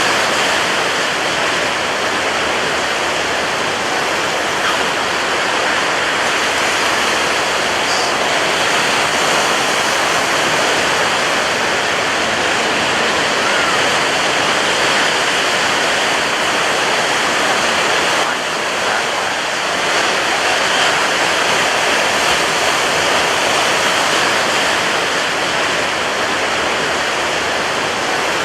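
Ocean waves breaking on a beach: a continuous, steady wash of surf, easing briefly a little past the middle.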